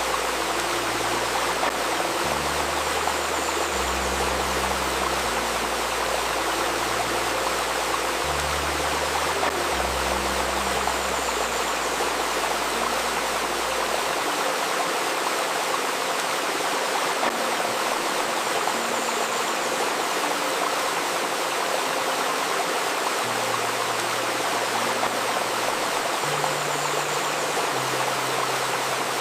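Babbling river water running steadily. Soft, low, sustained synth tones sit beneath it and shift note every second or two; they drop out about halfway through and return near the end.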